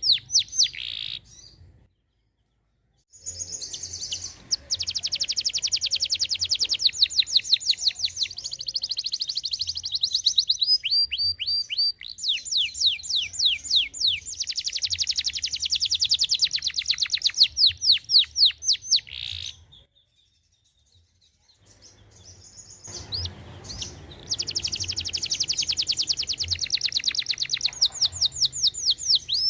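Domestic canary in full song: long, fast trills of rapidly repeated falling notes in a high register, broken twice by brief pauses.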